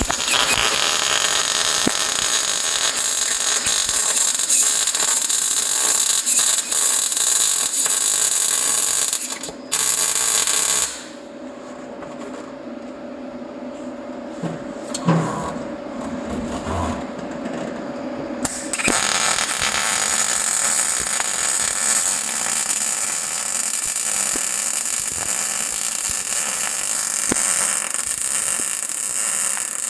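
Wire-feed welder arc crackling steadily while laying beads on steel bracing. It stops for several seconds about eleven seconds in, leaving a steady hum and a few knocks, then the arc starts again.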